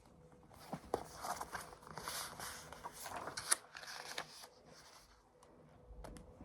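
Faint rustling and light clicks of a picture book's paper pages being handled and turned, lasting about four seconds.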